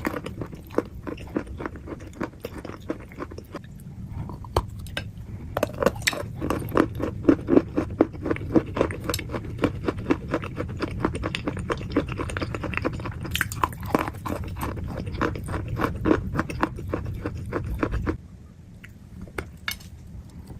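Close-up crunching: a dense run of crisp crackles and crunches, busiest from about six seconds in, that stops abruptly near the end.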